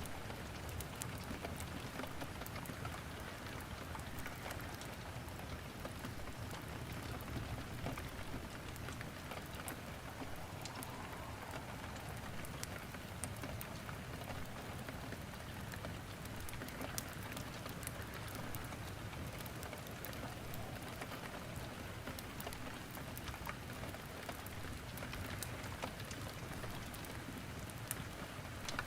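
Steady rain falling, mixed with scattered pops and crackles of firewood burning in a fireplace.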